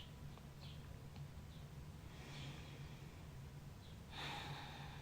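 Soft breathing between whispered phrases, with a breathy exhale or intake a little after four seconds in, over a faint steady low hum.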